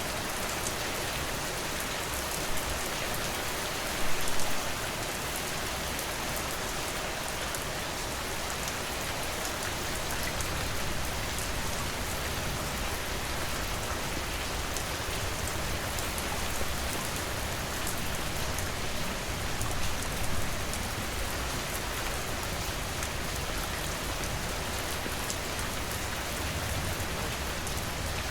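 Steady rain falling on a surface, a continuous hiss of drops with fine individual drop ticks. There is a brief louder burst of patter about four seconds in.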